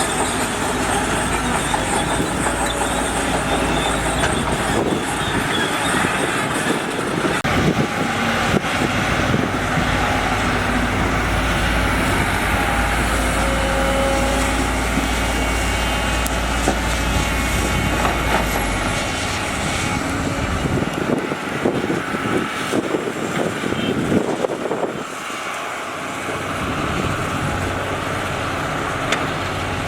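Heavy construction machinery at work: diesel engines running steadily with scattered clanks and knocks. The deep engine rumble drops away about two-thirds of the way through.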